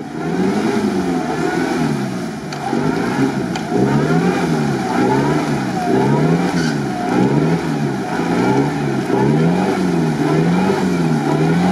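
Toyota Land Cruiser 70-series engine revving up and down in a steady rhythm, rising and falling about once a second, as the truck strains to drive out of deep mud.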